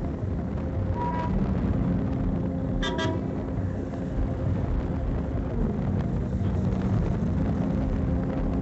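A steady engine rumble with a hum that shifts in pitch now and then. Over it come two short, high horn toots: a brief one about a second in and a doubled one about three seconds in.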